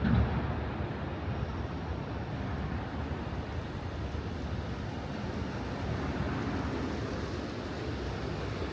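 Steady city ambience: a low rumble and hiss of vehicles going by, with a brief louder low bump right at the start.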